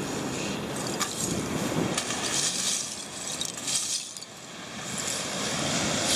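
Ocean surf washing onto the shore, swelling and fading in hissing surges, with a few sharp clicks like shells or pebbles being rolled.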